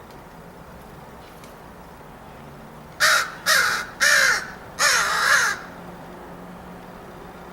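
Crow cawing four times in quick succession, loud and harsh, the last caw the longest.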